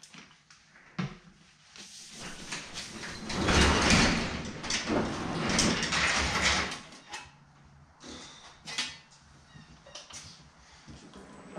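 Sheet metal being handled at a power hammer: a knock, then a few seconds of loud scraping and sliding, then a few scattered clanks.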